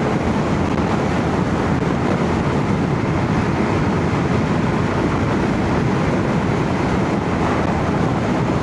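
Steady wind rush and road noise at about 70 mph on a Royal Enfield Shotgun 650 parallel-twin motorcycle, heard through a microphone inside a full-face helmet. The engine runs evenly under the wind, with no change in speed.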